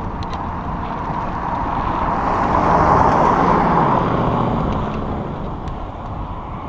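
A motor vehicle passing by. Its noise swells to its loudest about three seconds in and then fades, and its pitch drops as it goes past.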